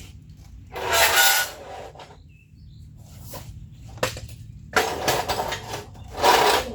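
Steel square tubing being handled, clattering and scraping metal on metal in three short bursts, the first about a second in and the last two near the end, over a steady low hum.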